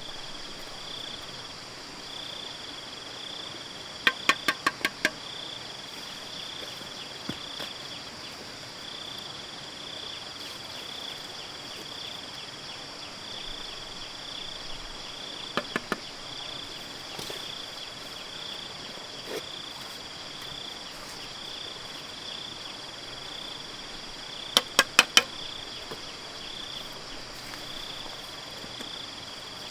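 Insects chirping steadily in an even, high-pitched pulse. Three bursts of sharp, quick knocks stand out, louder than the chirping: about five strikes about four seconds in, two near the middle, and five more near the end.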